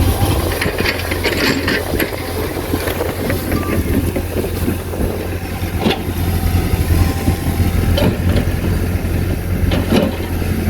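Diesel engine of heavy earthmoving machinery running steadily under load, with a few sharp knocks and clanks, about six, eight and ten seconds in.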